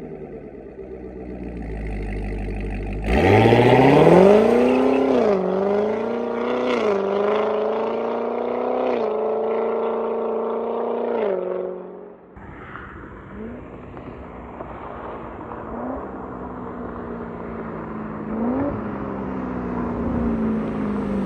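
Chevrolet Corvette C7 Z06's supercharged 6.2-litre V8 through a Corsa Extreme axle-back exhaust with an X-pipe, going to full throttle about three seconds in. The pitch climbs and drops back at three quick upshifts, holds, then falls away when the throttle lifts about twelve seconds in. After that it settles to a quieter, steady cruise note with a few short revs.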